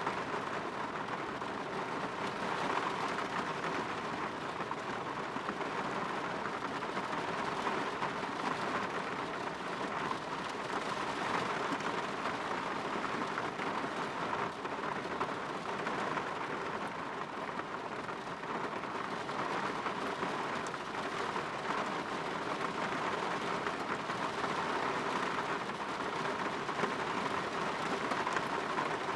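Steady rain falling on a window, an even patter with fine drop clicks throughout.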